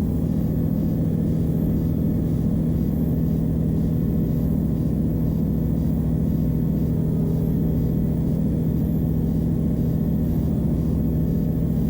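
Van's RV-12's Rotax 912 flat-four engine and propeller running steadily in flight, heard in the cockpit as an even, unchanging drone with a few steady low tones.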